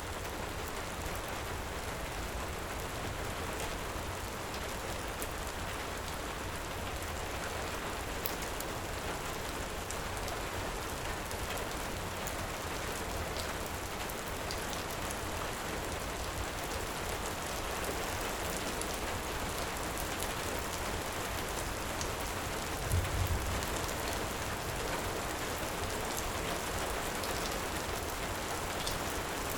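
Heavy rain falling steadily, with a fireplace crackling in scattered faint clicks. A brief low thump about three quarters of the way through.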